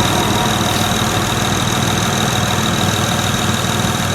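2006 Honda Accord's 3.0-litre V6 idling steadily, heard with the hood open.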